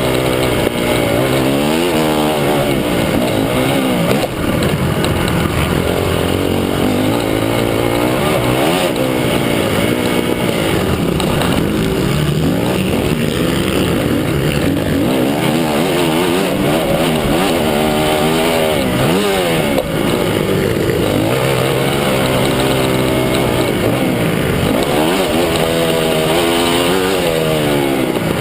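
Several motocross bikes riding the track, their engines revving up and down over one another in overlapping rising and falling pitches.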